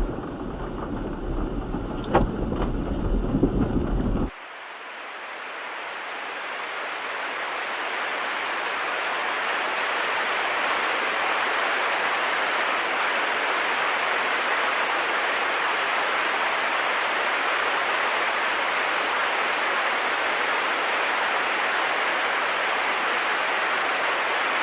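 A low rumble with a couple of sharp knocks, cut off suddenly about four seconds in by a steady, even hiss like static that swells over a few seconds and then holds.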